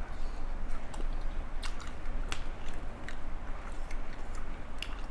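A person chewing food close to the microphone, with scattered small crunches and wet clicks of the mouth.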